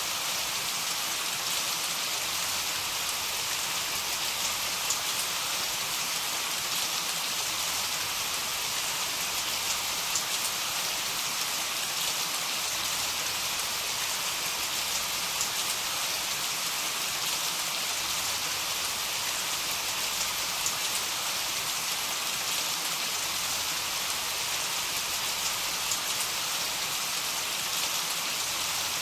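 Heavy rain falling steadily: a dense, even hiss with faint scattered drop ticks, and no thunder.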